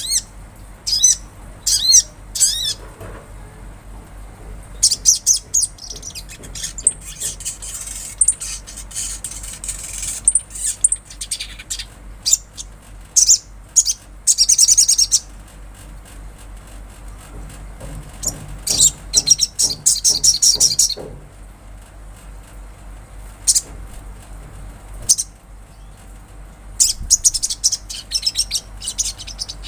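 Sunbird singing: bursts of high, rapid chirping trills broken by short pauses, over a steady low hum.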